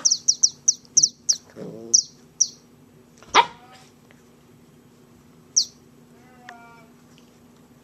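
A puppy at play: a quick run of short, very high-pitched squeaks, then a louder falling squeal about three and a half seconds in. A brief faint whine follows near the end.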